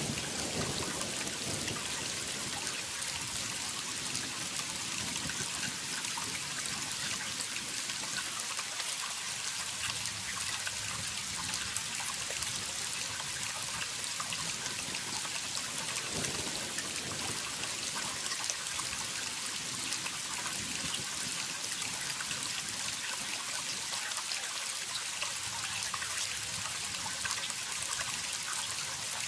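Waterfall: a steady rush of falling water, bright and hissy, with fine splashing and droplet patter and no change in level.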